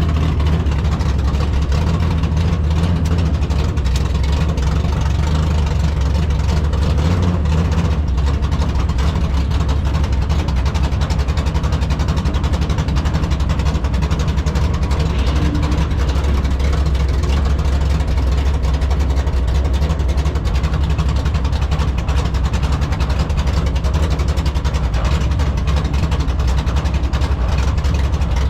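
A 383 stroker V8 in a 1970 Nova drag car idling, a steady low rumble with no big revs.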